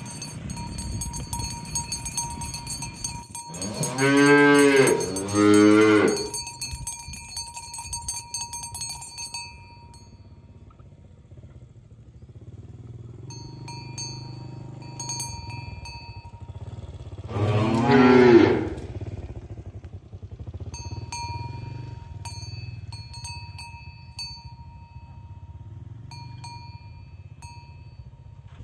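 Cows mooing: two long moos back to back about four seconds in, and one more about eighteen seconds in. A bell clinks irregularly in between.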